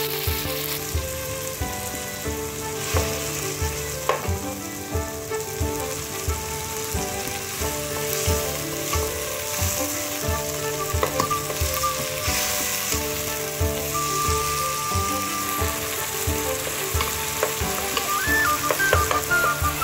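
Tomatoes, onion and garlic sizzling as they sauté in hot oil in a pot, stirred with a wooden spatula, over background music with a steady beat.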